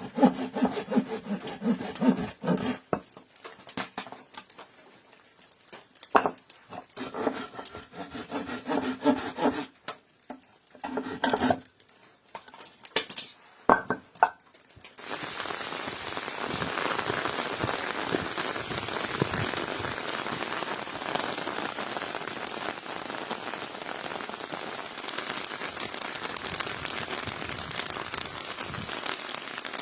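A saw cutting wood in repeated rasping strokes with pauses, for about the first half. Then, suddenly, steady heavy rain falling.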